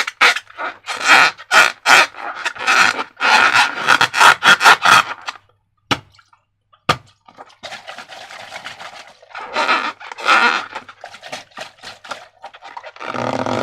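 Slime being squeezed and worked by hand, a rapid run of short wet squelches. About halfway through it stops briefly, with two sharp clicks, then the squelching starts again.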